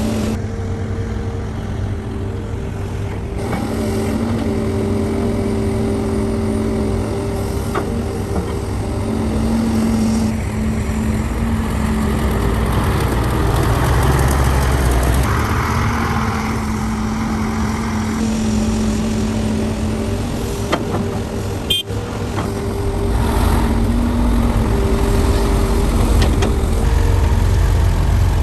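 Heavy diesel engines of a CAT 385C hydraulic excavator and dump trucks working under load, a continuous low rumble whose pitch and loudness rise and fall as the machines work. There is a brief sharp break about two-thirds of the way through.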